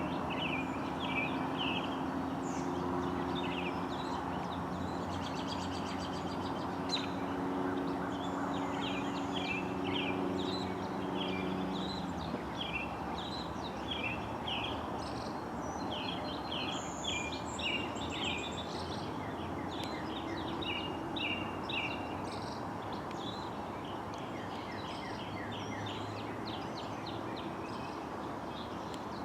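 Small birds chirping over and over against a steady outdoor noise, with a low steady hum underneath that stops about twelve seconds in.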